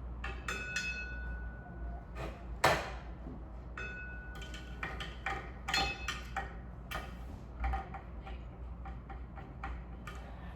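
Screws and small metal fan parts being handled: a string of light clicks and taps, two short ringing metallic tones in the first few seconds, and one sharp knock between them.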